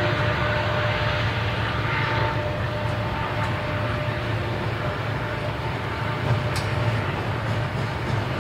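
Double-stack container well cars of a Union Pacific intermodal freight train rolling past: a steady rumble and roar of steel wheels on rail, with a faint steady ringing whine over it and a few light clicks near the end.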